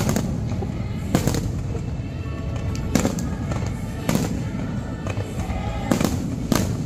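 Aerial firework shells bursting: sharp bangs every second or two, some in quick pairs, over a steady low rumble and background music.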